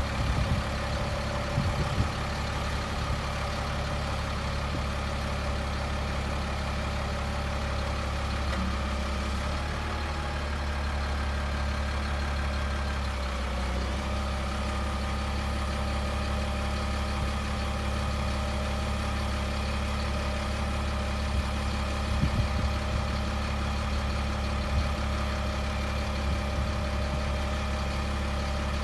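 The 2000 Freightliner FL70 bucket truck's engine idling steadily, with a few light knocks about three-quarters of the way through.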